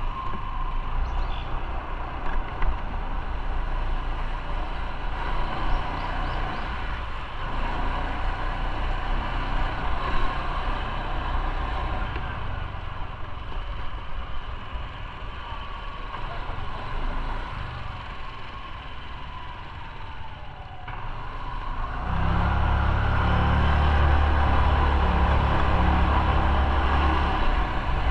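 Motorcycle riding on the road: its engine running under a steady haze of wind and road noise. About 22 seconds in, a much louder low rumble comes in and stays.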